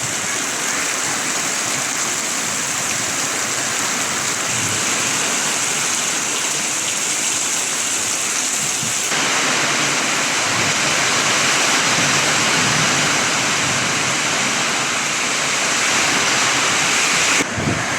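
Heavy rainstorm: a steady rush of pouring rain and running water, growing louder about halfway through.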